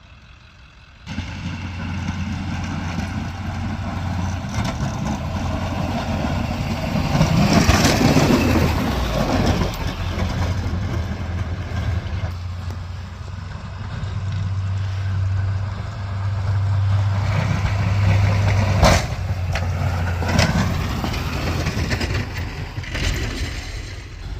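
Pickup truck engine running steadily, a low hum, with a louder rushing swell about eight seconds in and a single sharp knock near the end.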